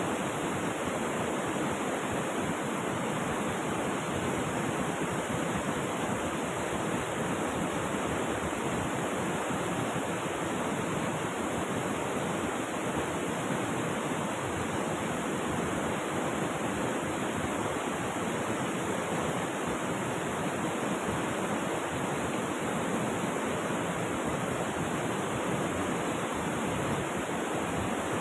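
River water rushing steadily, an even hiss without breaks or changes.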